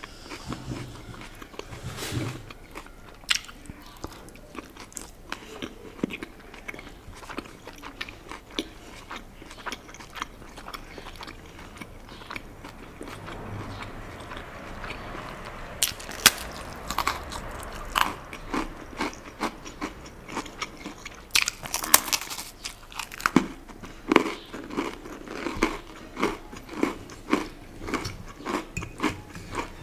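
Close-miked eating sounds of crackers, tofu and salad: chewing with many sharp crunches, denser and louder in the second half, ending in a run of about two crunches a second.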